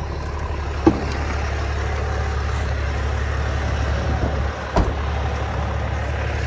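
Dodge pickup's 12-valve Cummins diesel engine idling steadily, with two short knocks, one about a second in and another near five seconds.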